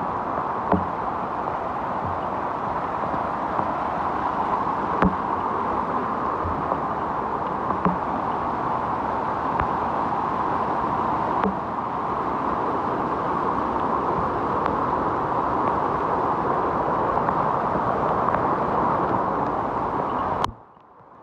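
Mountain stream in flood after heavy rain, its swollen water rushing steadily, with a few dull knocks in the first dozen seconds. The sound cuts off sharply near the end.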